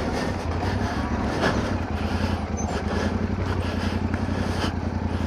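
Motorcycle engine running steadily as the bike rides down a steep, rough track.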